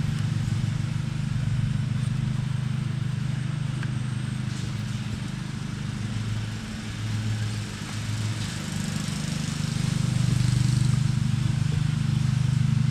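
A steady low motor drone with an even fast pulse, growing a little louder about two-thirds of the way in.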